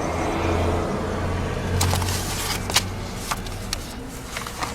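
A car on the road: steady engine and road noise, with several sharp knocks from about two seconds in.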